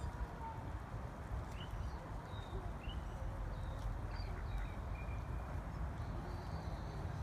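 Scattered short, faint bird chirps over a steady low rumble.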